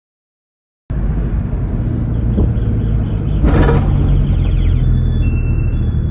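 Silence, then about a second in a truck engine comes in abruptly, running steadily and deep, with a short hiss about halfway through.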